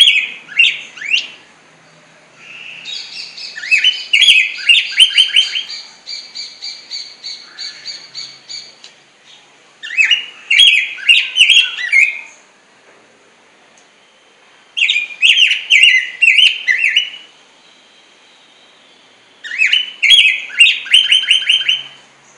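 Black-backed grosbeak (rey del bosque) singing: sweet, melodious phrases of quick, varied whistled notes. Five phrases come in bursts of a few seconds, the second one longest, with short pauses between them.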